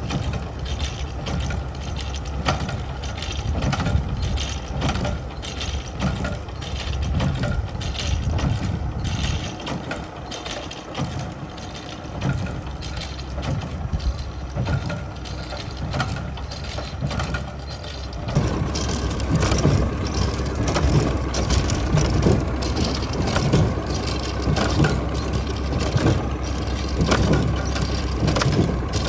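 Tractor engine running with a Massey Ferguson 20 hay baler working, a continuous mechanical noise. It turns abruptly louder and busier about two-thirds of the way through.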